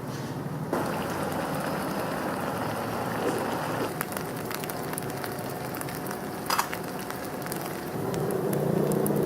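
Food sizzling in a hot wok during stir-frying, a steady hiss that starts up just under a second in, with scattered clicks and clinks of a utensil against the pan.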